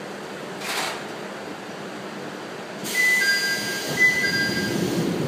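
Inside a slowly moving electric commuter train (ex-Keio 3000 series): a short puff of air, then about three seconds in a louder steady hiss starts suddenly, over which a two-tone electronic chime sounds twice.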